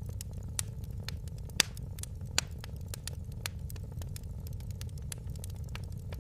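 Wood fire crackling: a steady low rumble of flames under frequent sharp snaps and pops, two louder pops about a second and a half and two and a half seconds in.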